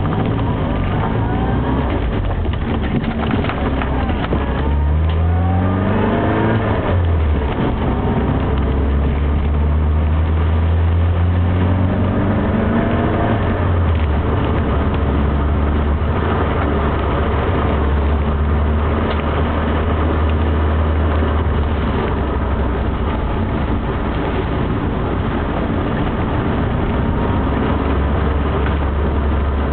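Classic Mini's A-series four-cylinder engine heard from inside the cabin, revving up with rising pitch about five seconds in and dropping at a gear change. It climbs again and drops near the middle, then pulls steadily on, over a constant road-noise hiss.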